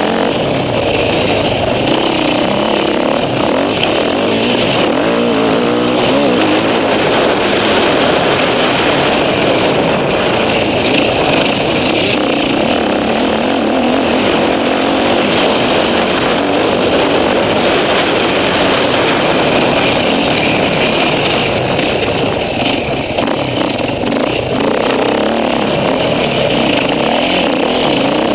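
Enduro motorcycle engine running hard, its revs rising and falling as the rider accelerates and backs off, heard close up from an onboard camera.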